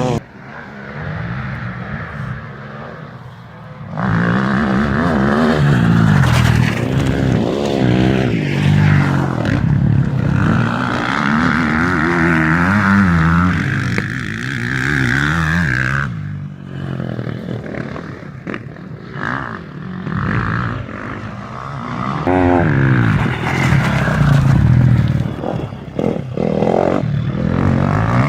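Motocross bikes' engines revving up and down, the pitch rising and falling with the throttle, louder from about four seconds in.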